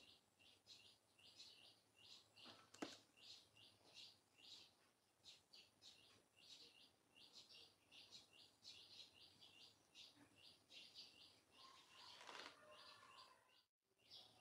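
Faint bird chirping, a steady run of short high chirps several times a second, over an otherwise near-silent room. There is a single faint click about three seconds in, and the sound cuts out briefly near the end.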